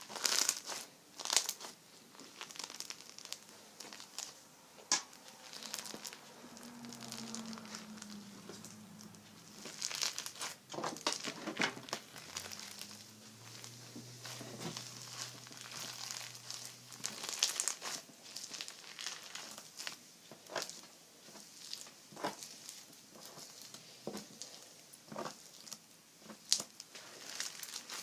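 Slime being squeezed, stretched and poked by hand, giving irregular crackling, popping and crinkling sounds.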